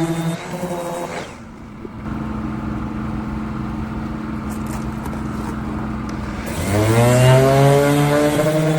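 Power sander with 180-grit paper sanding a car bumper: it runs, winds down about a second in, then spins back up near the end and runs steadily again. A lower steady hum carries on while it is stopped.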